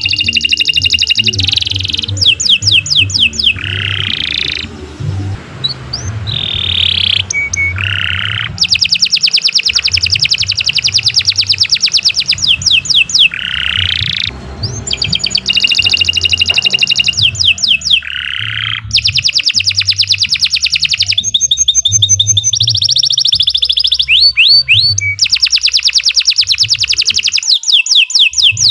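Domestic canary singing a long, vigorous song: rapid high trills of repeated notes in phrases of a few seconds, broken by short pauses and the odd lower swooping note.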